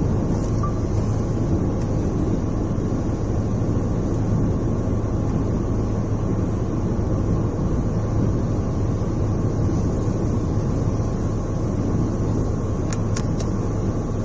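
Steady low roar of strong cyclone wind and rough sea, with the wind buffeting the microphone.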